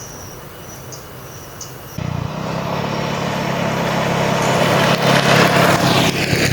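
Insects chirping faintly, then about two seconds in an abrupt cut to a motorbike engine running steadily, with a rushing noise that builds toward the end.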